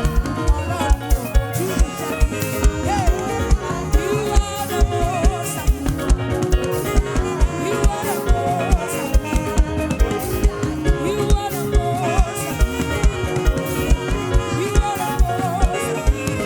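Live African gospel praise-band music with a steady, driving kick-drum beat and cymbals, and a wavering melodic line above.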